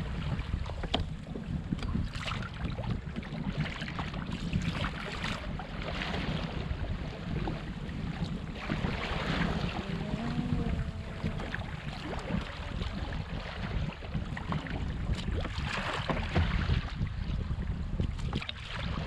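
Wind buffeting the microphone on a kayak at sea, a steady low rumble, with water sloshing and splashing around the hull that swells every few seconds.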